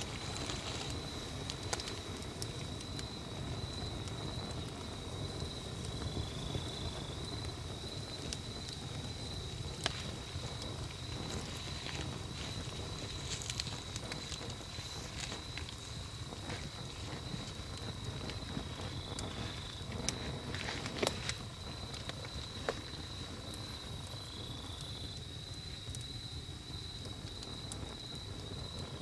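Wood campfire burning with a steady low rush of flames and scattered crackles and sharp pops, a couple of them louder. A continuous high-pitched insect trill runs through it.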